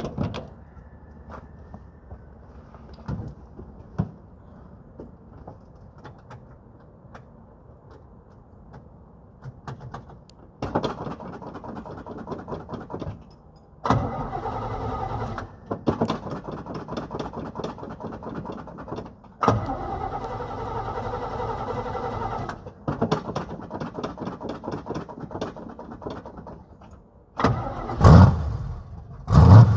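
A 1955 Chevy's small-block V8, which the owner believes is a 350, cranking on the starter in a cold start after about a month of sitting. It cranks in several tries of a few seconds each, then fires in loud bursts near the end as it starts to catch.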